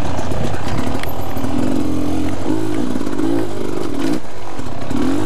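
Beta dirt bike engine running on a trail ride, its pitch rising and falling as the throttle is opened and closed.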